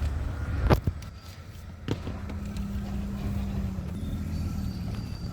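Garbage truck engine running steadily with a low hum, with a sharp knock about three-quarters of a second in and another just before two seconds.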